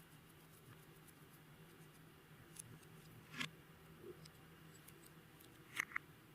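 Clear slime with glitter and beads being worked by hand: a few small clicks and pops over a faint steady hum, the loudest a quick double pop near the end.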